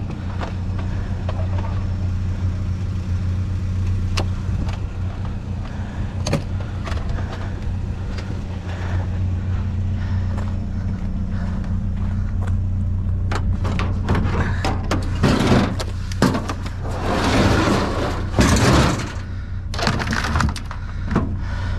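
A vehicle engine idling steadily, with a few sharp clicks, then clattering and rustling of junk and scrap metal being handled in a dumpster during the second half.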